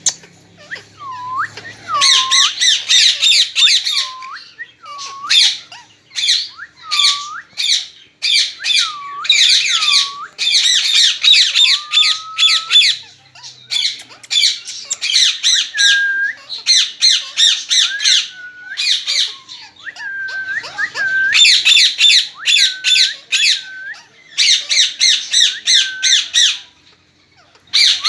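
Pet parrot squawking loudly, harsh screeches in rapid runs with short whistled notes between them, pausing briefly a few times.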